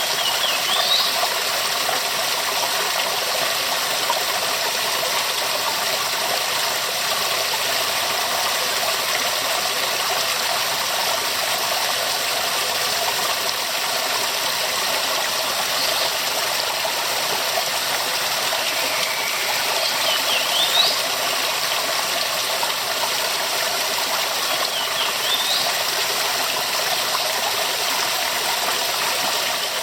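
Waterfall rushing steadily, a dense even roar of falling water that does not let up. A few faint, short rising chirps sit over it about a second in and again near twenty and twenty-five seconds.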